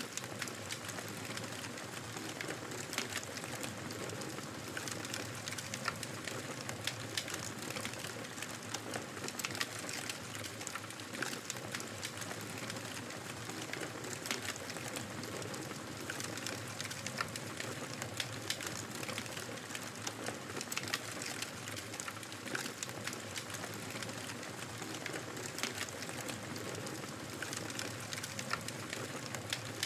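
Wood fire crackling in a fireplace: frequent sharp pops and snaps over a steady soft hiss.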